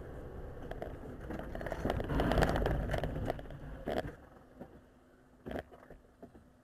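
Car collision heard from inside a vehicle: a crackling, scraping crunch that builds to its loudest about two seconds in, then a sharp knock near four seconds and a last knock a second and a half later.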